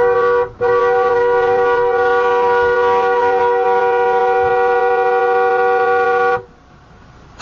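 Car horn: a short honk, then a long held blast of about six seconds that cuts off abruptly.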